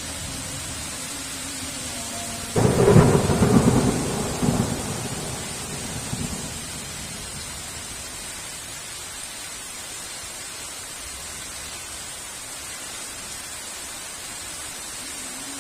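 Steady heavy rain with a sudden loud clap of thunder about two and a half seconds in, rumbling on for a few seconds before fading back under the rain.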